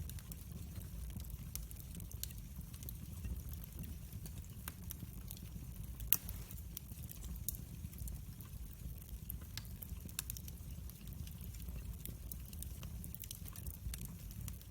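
Wood fire crackling in a fireplace: irregular sharp pops and snaps over a low steady rumble, with one louder pop about six seconds in.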